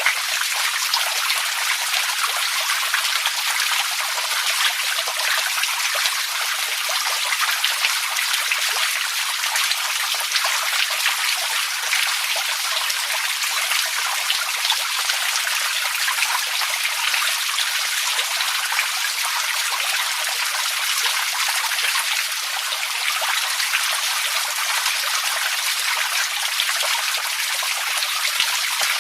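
Running water trickling and splashing steadily, a bright, even hiss made of many small drops and spatters, with no deep rumble.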